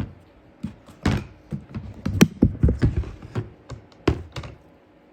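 Irregular clattering knocks and clicks of plastic snake tubs and feeding gear being handled in a rack, thickest in the middle and stopping about four and a half seconds in.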